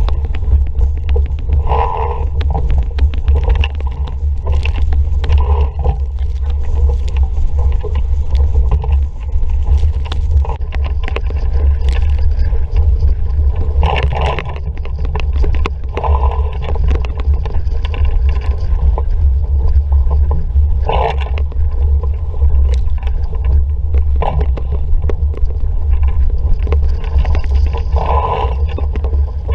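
Wind buffeting the camera microphone as a loud, constant low rumble, while water rushes and slaps along the hull of an RS Vareo sailing dinghy under way, with short surges of splashing every few seconds.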